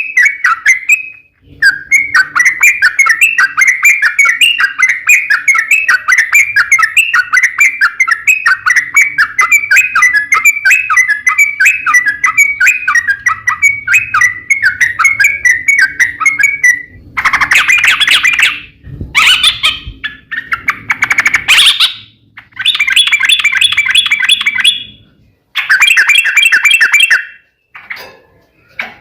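Yellow-vented bulbul (trucuk) singing a long, fast chattering run of notes. About halfway through it breaks into shorter, louder phrases with pauses between them.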